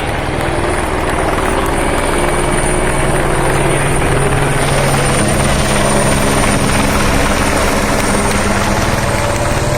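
Loud, steady engine noise, with several tones that rise slowly in pitch.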